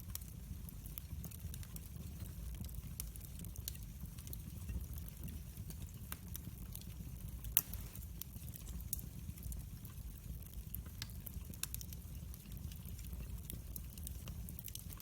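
Fireplace fire crackling, with scattered sharp pops over a low, steady rumble of the flames; one louder pop about halfway through.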